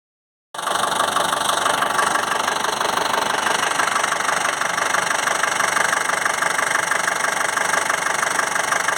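Chevrolet Tavera engine idling steadily while it runs through an engine carbon-cleaning (decarbonizing) treatment. The sound cuts in abruptly about half a second in.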